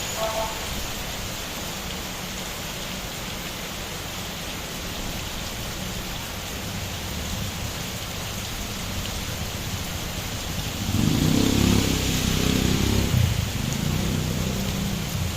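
Steady rain falling and pattering. About eleven seconds in, a louder low rumble swells and fades over roughly three seconds.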